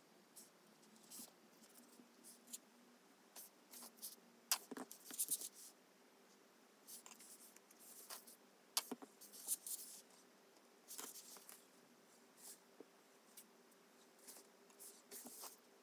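Soft, scattered clicks, taps and scrapes of metal tweezers and small paper flowers and bows being set down on a clear plastic card holder, in short clusters.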